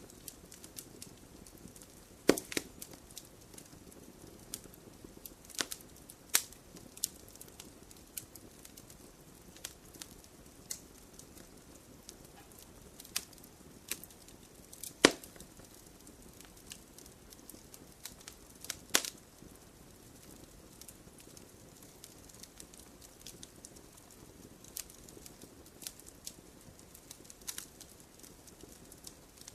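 Campfire crackling: irregular sharp pops and snaps over a low, steady rustle of burning flames, the loudest pops a couple of seconds in, at the middle, and about two-thirds of the way through.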